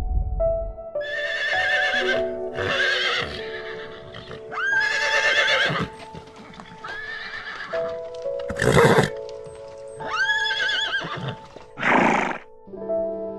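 A horse whinnying several times in a row, each call high and wavering. Two short, loud, noisy blasts come near the end, with soft background music throughout.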